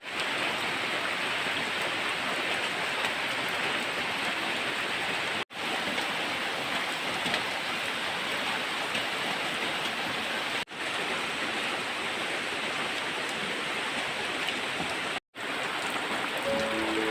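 Steady hiss of water noise, broken by three very short gaps about five seconds apart.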